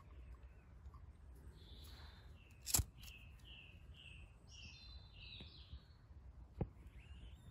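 Birds chirping, a run of about six short chirps, roughly two a second, starting about three seconds in. A single sharp click, the loudest sound, comes just before the chirps, and a fainter click comes near the end.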